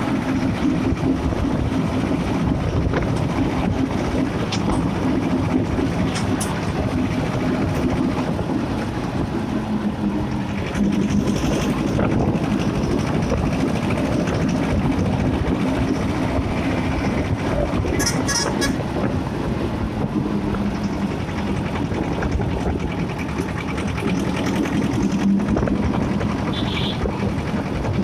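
Escort 335 tractor's diesel engine running steadily at road speed.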